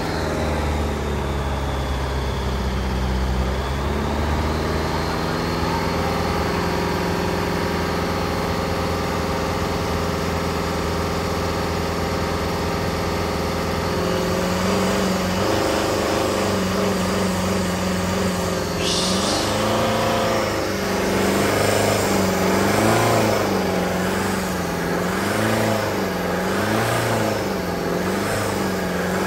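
Jeep Renegade's engine running steadily at raised revs, then revved up and down repeatedly, about once every second and a half, to push charge through jumper cables into a flat battery in another truck.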